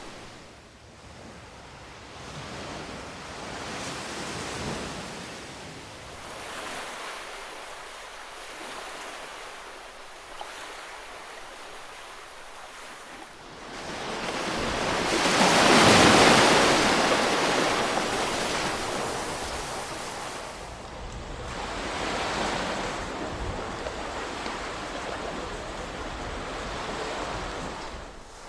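Ocean waves breaking and washing on a shore in slow swells of surf noise, each rising and fading over a few seconds. The biggest wave breaks about halfway through.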